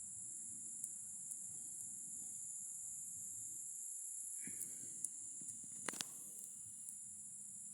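Steady, high-pitched chorus of insects such as crickets, unbroken throughout, with a few short clicks a little past the middle.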